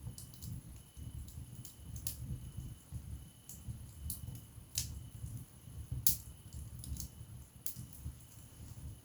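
Wood fire burning in a fireplace: a low, fluttering rumble of flames with scattered sharp crackles and pops from the burning logs, the loudest pops about five and six seconds in.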